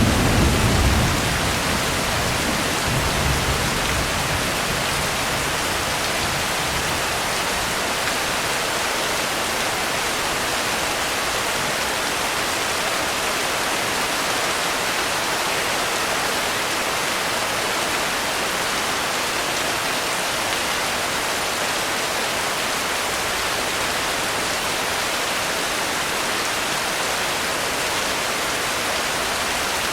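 Steady rain, an even hiss of falling water, with a brief low rumble in the first few seconds.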